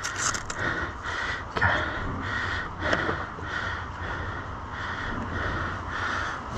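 Heavy, rhythmic panting close to the microphone, about two to three breaths a second, from an exhausted rider struggling in the mud, with a couple of sharp knocks.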